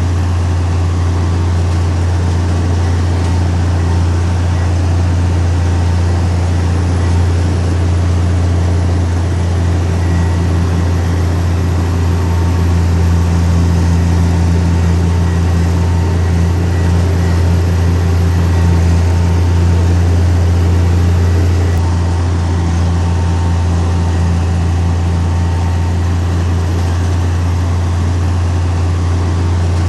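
Heavy diesel engine of earthmoving machinery running steadily, with a slight rise in engine load about halfway through that eases off near the end.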